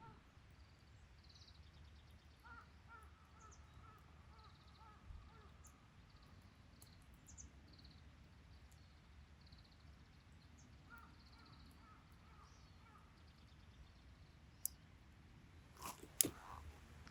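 Faint outdoor quiet with birds calling: a run of repeated calls about two seconds in and again about eleven seconds in, over fainter higher chirps. A few sharp clicks near the end.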